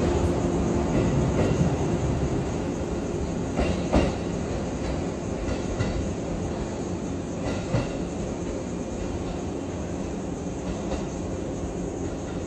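JR Kyushu 415 series electric train running on the rails: a steady rumble with a few sharp wheel clacks over rail joints, slowly getting quieter.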